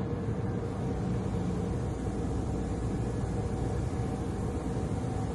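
Steady low mechanical rumble with a faint even hum, from a car going through a drive-through car wash.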